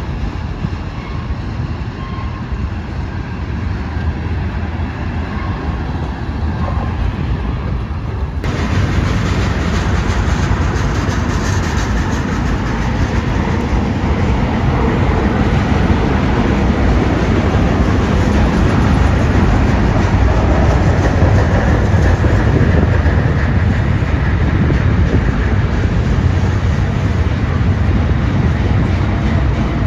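Freight train cars rolling past on steel wheels, a steady rumble. The sound steps up louder and brighter about eight seconds in.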